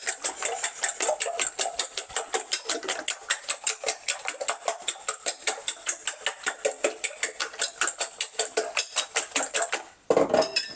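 A fork whisking eggs in a bowl, its tines clicking against the bowl in a quick, steady rhythm of about seven strokes a second, stopping about ten seconds in.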